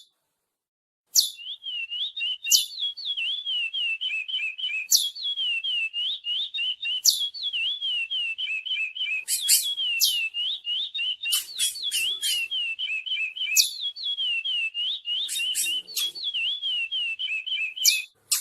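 Chestnut-bellied seed finch (curió) singing a long, fast, warbling song of rapid whistled notes, punctuated every second or two by a sharp falling note. The song starts about a second in.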